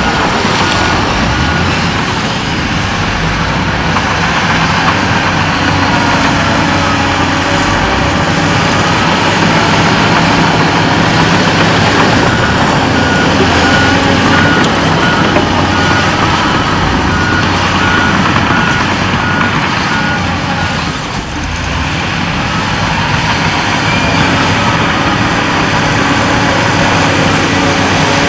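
Heavy earthmoving machinery, a bulldozer and dump trucks, running steadily under load, with a reversing alarm beeping at an even pace at the start and again for several seconds from about halfway in.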